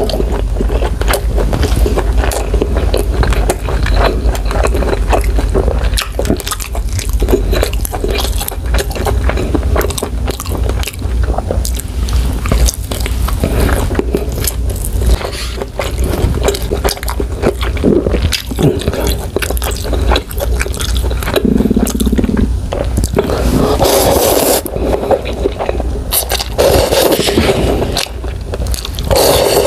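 Close-miked chewing of beef steak: wet mouth sounds with many small clicks, over a steady low hum. Near the end, slurping of ramen noodles.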